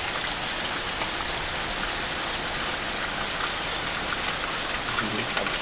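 Heavy rain falling steadily, with runoff streaming off the roof edge and splashing onto the ground and plants.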